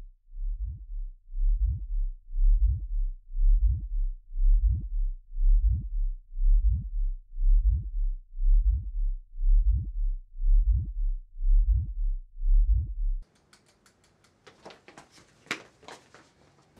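Heartbeat sound effect: low double thumps about once a second, swelling in over the first couple of seconds and cutting off abruptly about 13 seconds in. A run of faint clicks and rattles follows.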